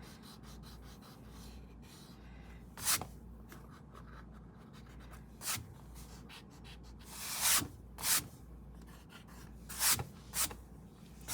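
Eraser rubbing out colored lines on paper in about six short, separate strokes, over a faint steady low hum.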